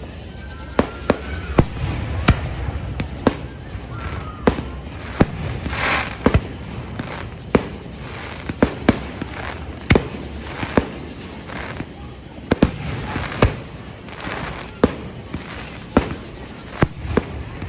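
Fireworks display: aerial shells bursting in an irregular run of sharp bangs, about one or two a second, with a stretch of crackle about six seconds in.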